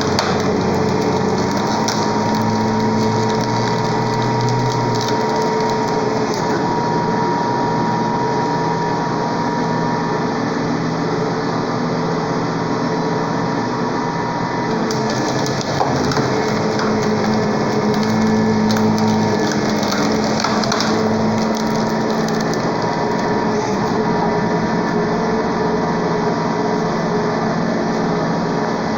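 Hydraulic firewood splitter running with a steady motor and pump drone as it works through logs, wood crushing and splitting under the ram. There is a short knock about halfway.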